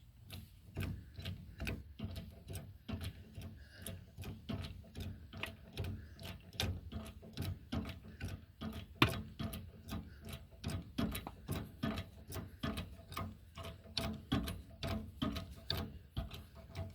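A jack being worked to push a tractor tyre's bead off the rim, ticking and clicking in a steady, even rhythm with each stroke. About nine seconds in there is one louder sharp knock.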